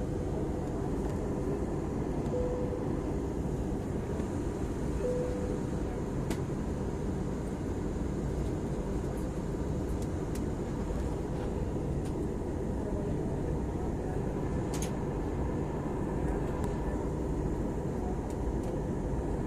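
Steady, unbroken noise of a passenger airliner's engines and rushing air.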